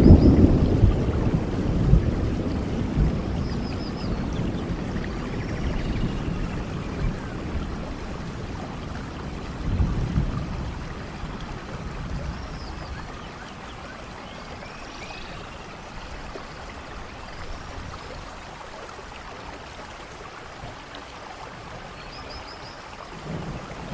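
Rainforest thunderstorm: steady rain, with thunder rumbling at the start and dying away over several seconds, a short rumble about ten seconds in, and a fresh roll of thunder starting near the end.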